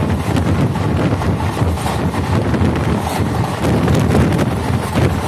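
Wind buffeting a microphone held out of a moving passenger train, over the steady rumble of the coach's wheels running on the track.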